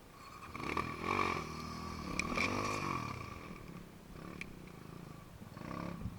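Dirt bike engine revving up and falling back, twice in quick succession, then a smaller blip of the throttle near the end.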